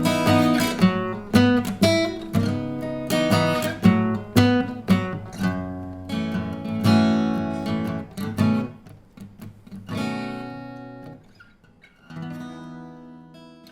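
Fortis FG-1000C dreadnought acoustic guitar, solid spruce top with laminated mahogany back and sides, being strummed and picked. The playing thins out and gets quieter, ending on a last chord about twelve seconds in that rings out and fades.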